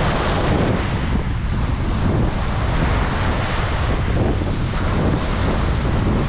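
Ocean waves breaking and washing on a beach, a steady surf with swells every second or two, with wind buffeting the microphone in a heavy low rumble.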